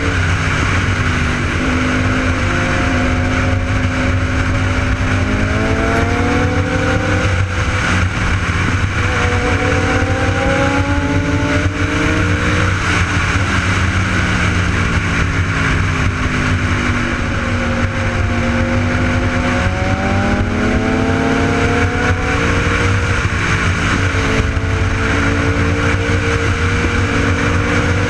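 Sport motorcycle (superbike) engine running on the road, its pitch climbing slowly and dropping back several times as it speeds up and eases off, over a steady rushing noise.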